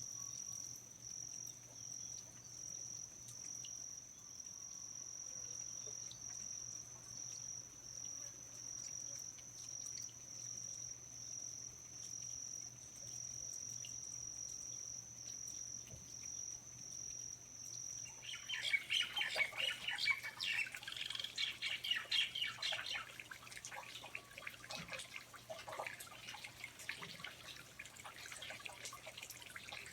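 Rainforest ambience: a cricket trills steadily at a high pitch in an even pulse. About 18 seconds in it cuts off and gives way to louder, busy, irregular chirps and drips.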